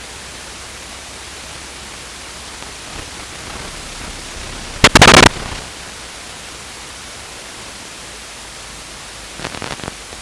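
Steady hiss of static on the aircraft's headset and radio audio. About five seconds in comes one short, very loud burst of radio static, with a few fainter crackles near the end.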